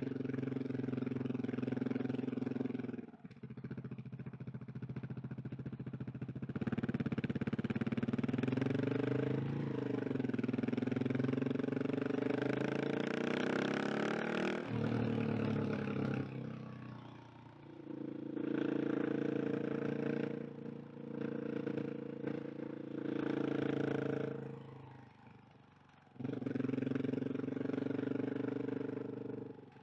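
KTM 690 SMC R's single-cylinder engine under way, its revs climbing and falling as the throttle opens and closes through the gears. The sound drops away briefly a few times, about three seconds in, around the middle and near the end, as the throttle shuts.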